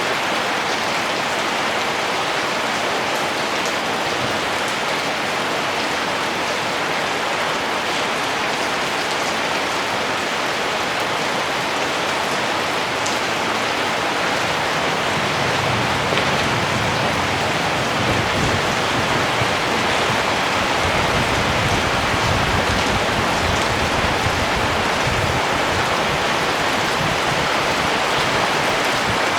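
Steady rain falling, an even hiss of many drops. About halfway through, a low rumble joins it.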